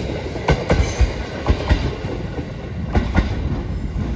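JR Shikoku 7000 series electric train pulling away over jointed track, its wheels clacking over the rail joints in close pairs under a steady low rumble, growing fainter toward the end.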